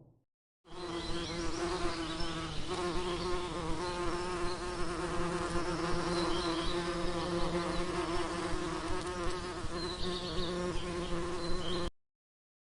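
Steady wing buzz of a flying insect, a continuous low hum with a slight shift in pitch about two and a half seconds in, starting and stopping abruptly.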